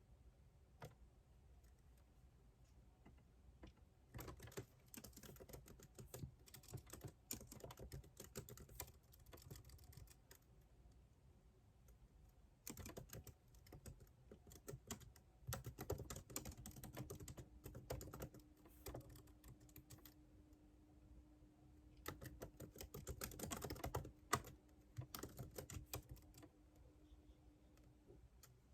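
Computer keyboard typing in three runs of rapid key clicks, with short pauses between them.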